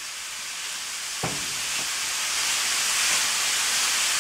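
Shredded carrots sizzling in hot ghee in a stainless steel pan as they are stirred, a steady hiss that grows louder, with a single knock about a second in.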